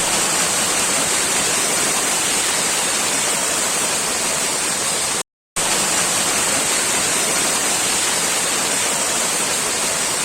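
Heavy rain falling as a loud, steady hiss, broken by a brief silence about five seconds in.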